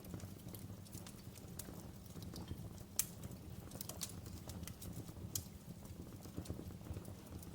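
Wood fire crackling in a fireplace: irregular sharp pops and snaps over a low steady rumble, the loudest pop about three seconds in.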